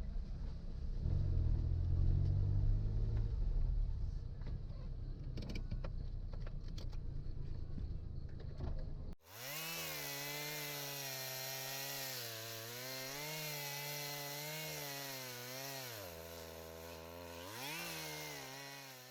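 A vehicle engine running with a low rumble. About nine seconds in, an abrupt cut to a two-stroke chainsaw running, its pitch rising and falling as the throttle is worked.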